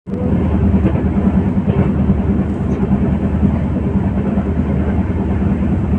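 Running noise of a moving train heard from inside a carriage: a steady, loud low rumble of wheels on the rails.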